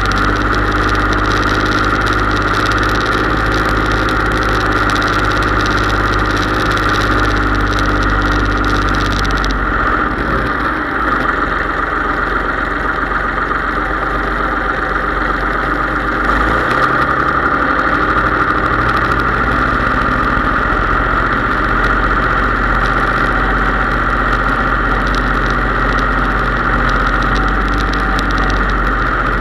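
Case IH 3220 tractor's diesel engine running steadily, with a strong high whine over it. The engine note shifts about ten seconds in and settles back around seventeen seconds.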